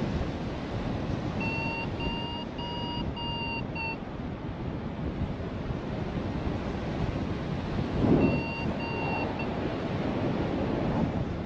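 Strong wind buffeting the microphone in flight, with a paragliding variometer beeping in short quick pulses about a second and a half in and again near the end, the beeps that signal the glider is climbing in lift. A strong gust hits about eight seconds in.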